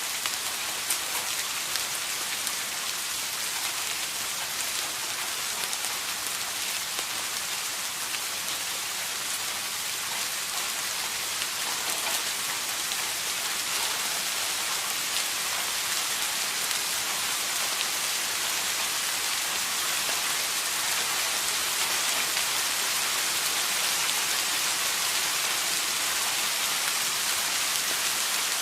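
Steady rain falling, an even hiss of many drops with fine pattering ticks, growing slightly louder near the end.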